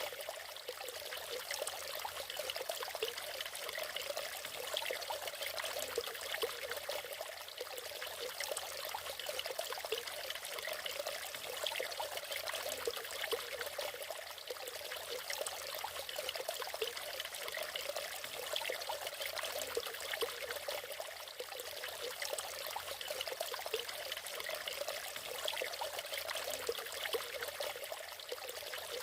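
Natural waterfall: water pouring and splashing steadily, with little deep rumble.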